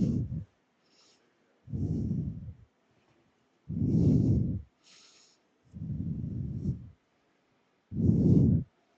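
A person breathing heavily straight into a close microphone: five low, muffled puffs about two seconds apart, with near silence between them.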